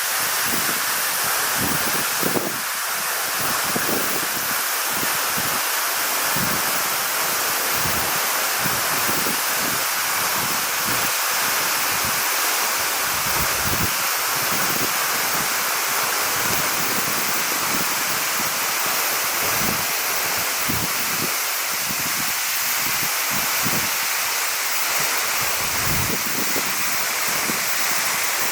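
Steady rush of a tall vertical waterfall, a drop of about 38 m, plunging into its pool, heard as an even hiss. Irregular low rumbles run under it, wind buffeting the microphone.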